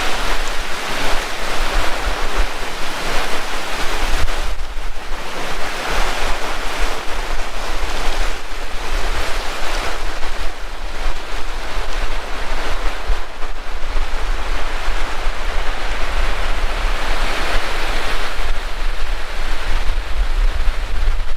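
Heavy rain pouring steadily, its hiss swelling and easing every few seconds, with wind buffeting the microphone in a low rumble.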